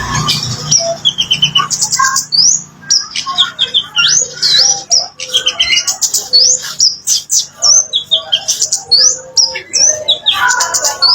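Kemade songbird singing a fast, loud jumble of high chirps and whistles that slur up and down, several notes a second.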